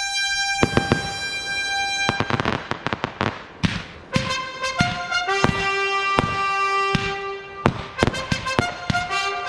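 Fireworks going off: many sharp bangs in quick succession as shells and mines burst. The bangs sound over music with long held notes.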